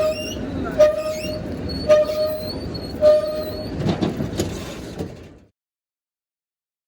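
A train's bell ringing at the station, struck roughly once a second over the rumble of the train, cutting off abruptly about five and a half seconds in.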